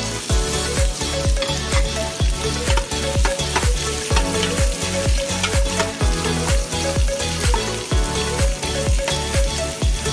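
Ginger, lemongrass and onion sizzling in hot oil and being stirred in a pan, over background music with a steady thumping beat.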